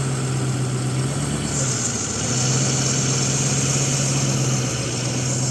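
Vehicle engine idling steadily, with a high hissing noise joining in about one and a half seconds in and stopping near the end.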